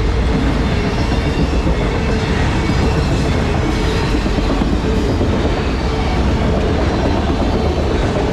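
Freight cars of a long train rolling past, wheels clattering over the rails, loud and continuous with a faint steady tone underneath.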